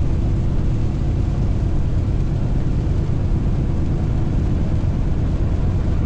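Semi tanker truck driving on the highway: a steady low drone of engine and road noise with a faint hum, no change throughout.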